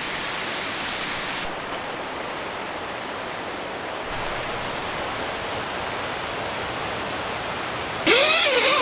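Steady outdoor rushing noise, like running water. About eight seconds in, a louder sound with gliding, wavering tones cuts in.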